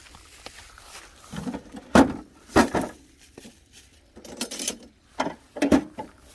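A few sharp knocks and clatters of hard objects being handled: two strong knocks about two seconds in, some rattling, and two more knocks around five seconds in.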